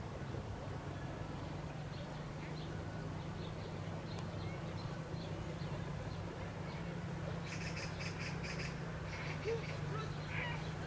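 Small birds chirping: faint scattered high notes, then a quick run of repeated high chirps a little past halfway and a few more near the end, over a steady low rumble.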